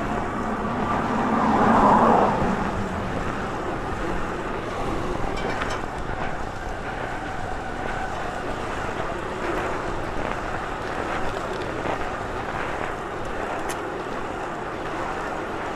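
Steady wind noise rushing over the microphone, with a louder swell about two seconds in.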